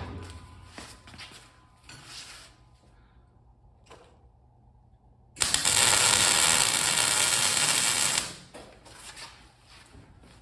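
Wire-feed welder arc crackling steadily for about three seconds, starting and stopping abruptly, after a few light metal clicks and taps.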